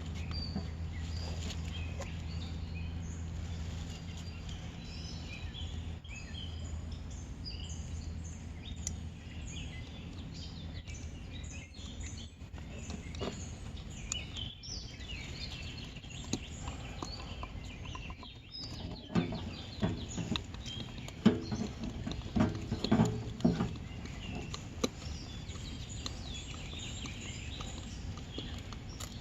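Outdoor ambience with birds chirping on and off, over a steady low hum that fades out about a third of the way in. About twenty seconds in comes a run of sharp knocks and clicks from handling at the valve.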